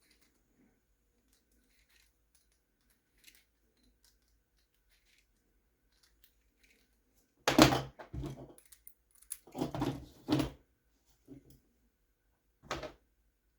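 Small tools and parts being handled and set down on a workbench: faint clicks at first, then a few short clattering knocks and rattles from about halfway through.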